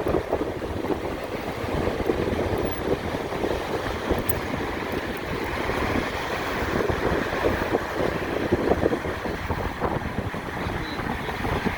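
Wind buffeting the microphone while riding a motorcycle, a steady gusty rush with road noise underneath.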